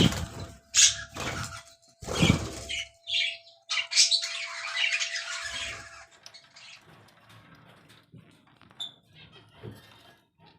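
Hagoromo budgerigars chattering and squawking, dense and loud for about six seconds with two bumps near the start, then fainter scattered chirps.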